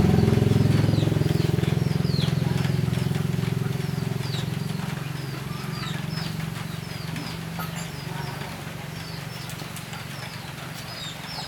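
A machine hums low with a fast pulsing. It starts suddenly just before this moment and slowly fades over several seconds, while small birds chirp repeatedly in short falling notes.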